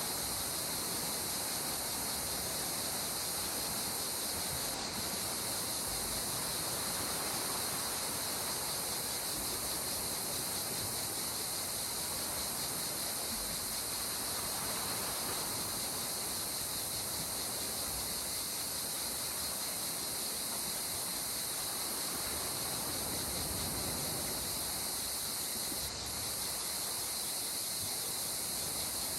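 Gentle sea waves washing onto the shore, swelling slowly a couple of times, under a steady high-pitched chirring of insects.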